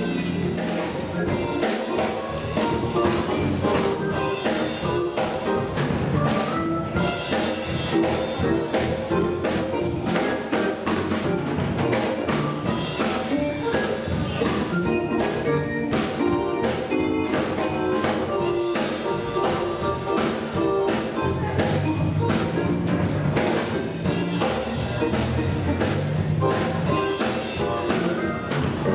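Church band playing an instrumental passage with drums, steady notes and a regular beat, without singing.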